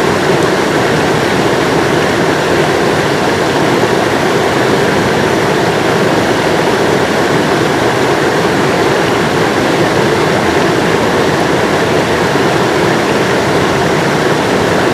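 River water rushing, a steady, loud, even noise that does not change.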